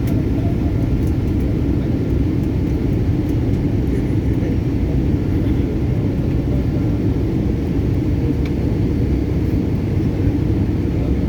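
Steady low rumble of airliner cabin noise in flight, the engines and airflow blending into an even roar.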